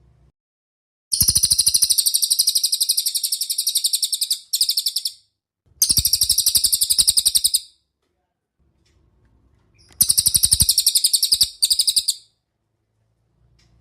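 A bird giving rapid, evenly pulsed high trills in repeated bouts of a few seconds each, with silent pauses between them.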